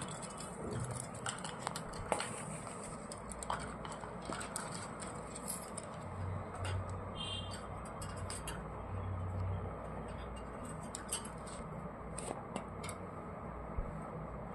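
Scattered light clicks and scratches from pet parrots moving about and pecking, over a steady low background hum.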